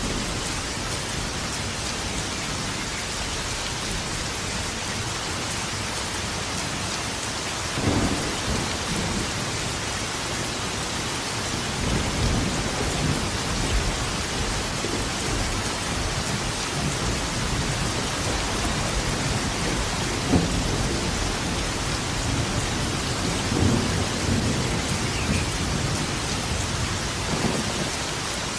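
Steady rain falling, with thunder. A short sharp clap comes about eight seconds in, and low rumbling thunder rolls through the second half, peaking around twenty and twenty-four seconds in.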